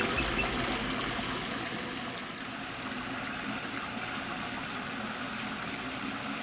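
Water running steadily over a koi pond's stream waterfall, an even splashing trickle.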